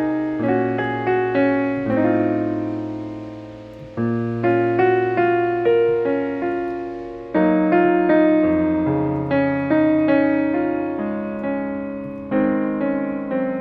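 Background piano music: slow chords struck every second or so over held bass notes, each fading before the next.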